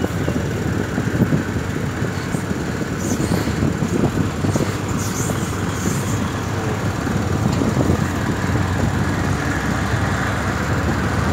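Passenger train carriage rolling along the rails, heard at an open window: a steady, loud rumble and clatter of wheels on track.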